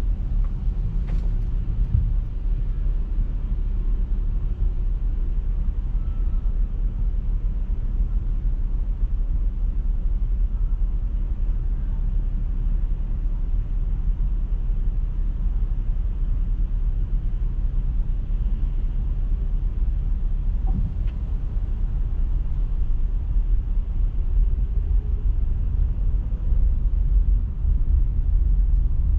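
Steady low rumble of a car driving: road and engine noise that stays level throughout.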